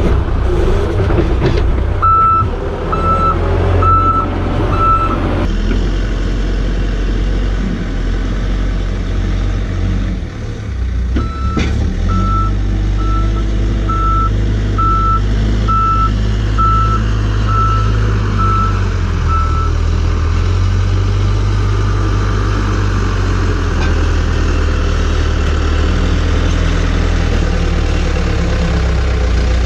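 A heavy farm vehicle's engine running steadily, with a reversing alarm beeping about once a second. There are four beeps a couple of seconds in, then a longer run of about nine beeps from about eleven seconds in.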